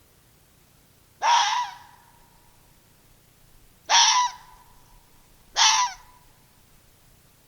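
An animal calling three times, each a short harsh cry of about half a second, with a faint thin tone lingering after each.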